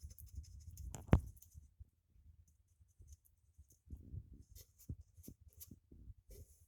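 Small stiff-bristled acid brush scratching as it works wood glue into the edge of a wooden beehive box, in short irregular strokes. There is one sharp knock about a second in.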